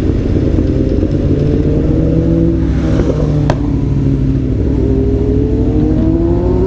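Aprilia Tuono V4 1100 Factory's V4 engine pulling under acceleration, its pitch rising steadily. There is a sharp click and a shift about halfway through, and then the pitch climbs again.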